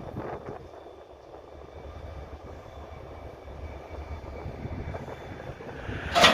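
Low rumble of a train, then about six seconds in a single loud, sharp bang with a short ring after it: the clank of the couplers slamming together as the locomotive joins onto the freight cars.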